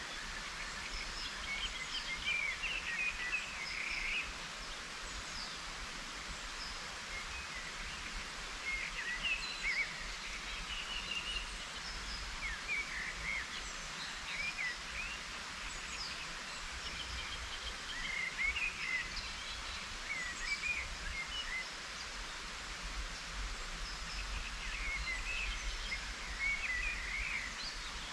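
Small birds chirping and twittering in short clusters every few seconds over a steady hiss of light rain.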